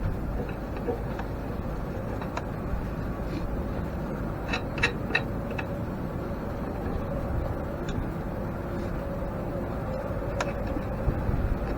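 Sharp metallic clicks from work on an antique grain mill being taken apart, a quick run of four about halfway through and one more near the end, over a steady low rumble and faint hum.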